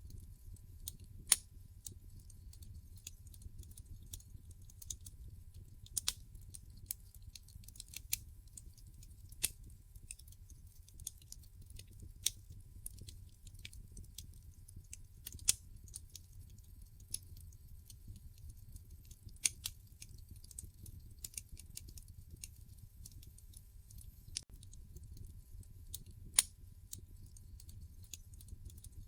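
Wood fire in a fireplace crackling: irregular sharp pops and snaps, with a few louder cracks scattered through, over a faint low rumble.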